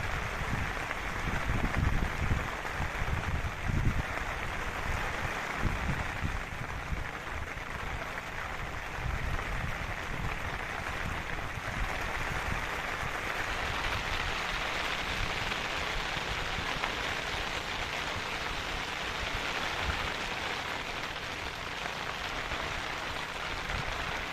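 Steady rain falling, with the hiss growing a little fuller about halfway through. Low buffeting, likely wind on the microphone, comes in the first few seconds.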